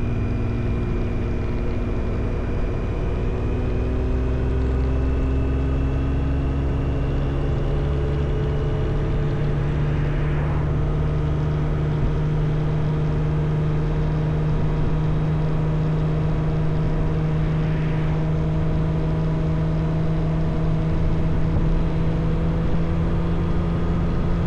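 Motorcycle engine running steadily while riding, its pitch climbing slowly and evenly.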